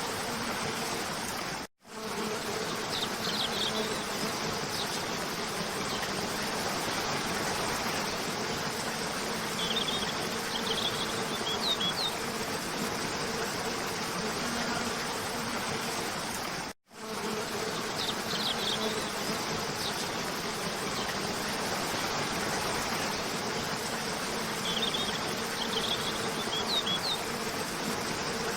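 Steady rush of a cascading waterfall, with a few short high bird chirps every several seconds. The sound cuts out abruptly for a split second twice, at the joins of a looped recording.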